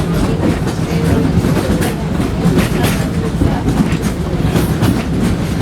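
Wildlife Express passenger train rolling along the track, heard from on board: a steady low rumble with irregular clicking and clacking of the wheels over the rails.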